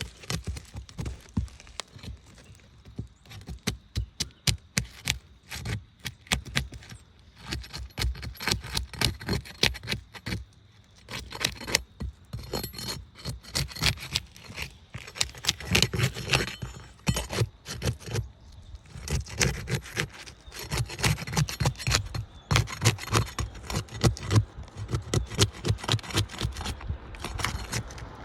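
Old asphalt roof shingles being worked loose by hand tools: a long, uneven run of scrapes, crackles and clicks as the brittle, worn-thin shingles are lifted and their seals broken.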